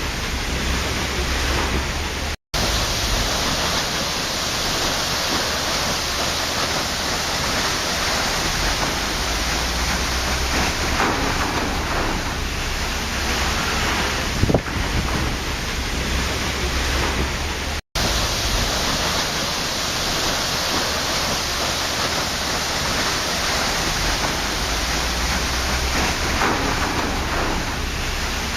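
Waterfall: a steady rush of falling water, with a few faint splashes through it. It cuts out to silence for an instant twice, once near the start and once about two-thirds through.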